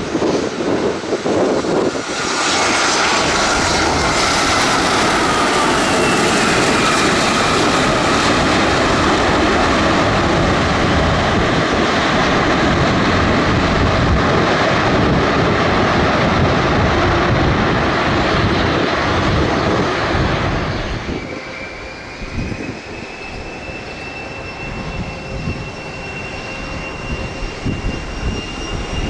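Aircraft engines, loud from about two seconds in, with a whine that slowly falls in pitch. About 21 seconds in they drop away sharply to a quieter engine sound whose whine slowly rises.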